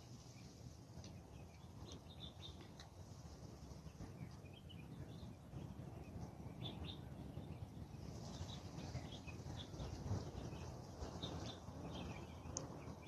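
Small birds chirping in many short, scattered calls over a low steady rumble, with a thin high hiss joining about eight seconds in.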